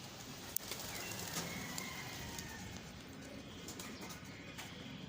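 Young racing pigeons cooing in their loft, with a few sharp clicks.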